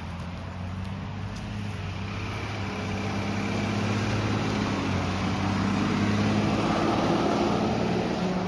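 Semi truck driving past, a steady low engine drone that grows louder over several seconds and eases slightly near the end.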